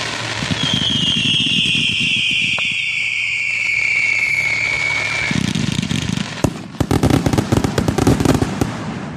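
Fireworks going off: a long whistle falling slowly in pitch for about five seconds over a low rumble, then a sharp bang and a dense, rapid crackle of many small pops for about two seconds near the end.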